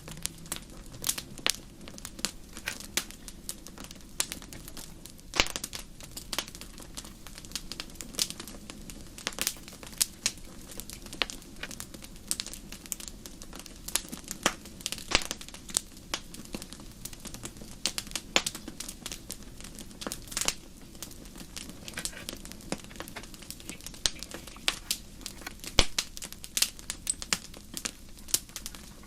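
Wood fire crackling, with many sharp, irregular pops over a steady low rush.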